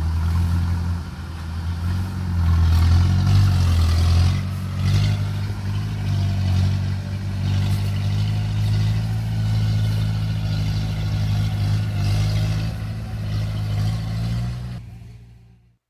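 A large engine running steadily, its pitch rising and falling slightly, then fading out near the end.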